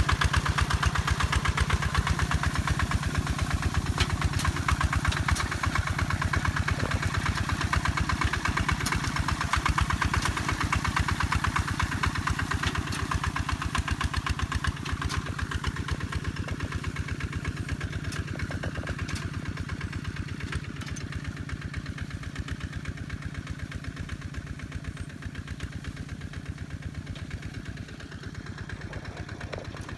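Kubota tractor's diesel engine running with an even, rapid firing beat, slowly growing fainter over the second half.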